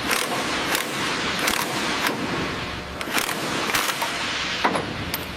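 Steady factory machinery noise with sharp metallic knocks or bangs at an uneven rhythm, roughly one every half second to second.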